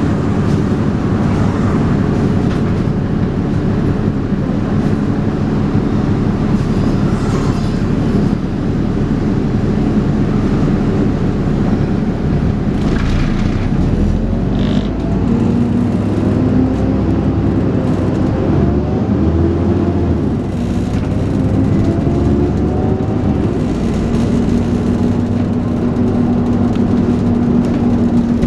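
Dennis Trident 2 double-decker bus engine thrashing under load, heard on board. The engine note climbs in a series of rising whines through the middle, then settles into a steady drone near the end.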